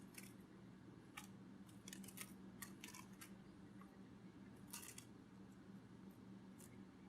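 Near silence: a faint steady low hum with scattered soft irregular clicks, a cluster of them about two to three seconds in and another near five seconds.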